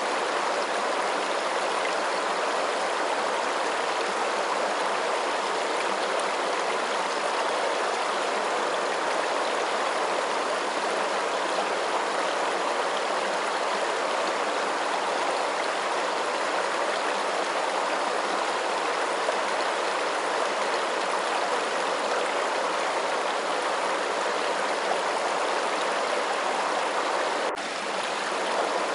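Steady rush of running water, like a stream, even and unbroken, with a brief dip in level near the end.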